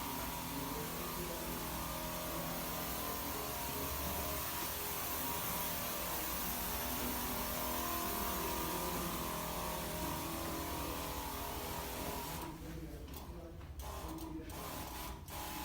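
Motorised disinfectant sprayer running: a steady spray hiss over a motor hum. Near the end the hiss cuts out and comes back several times while the motor keeps running, as the spray is switched on and off.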